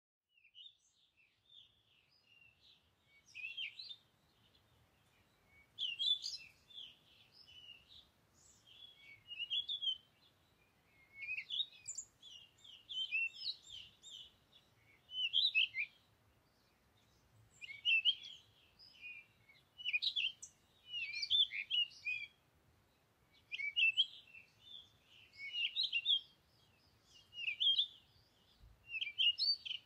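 Small bird chirping and twittering in quick clusters of high notes, one cluster about every two seconds.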